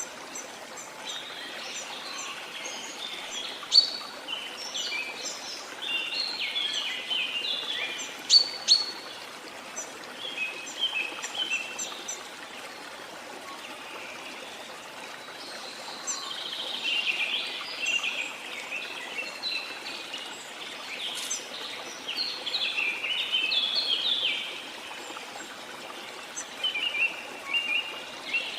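Tropical rainforest birds singing in quick chirping phrases, with a few sharp loud chirps, over the steady rush of a waterfall.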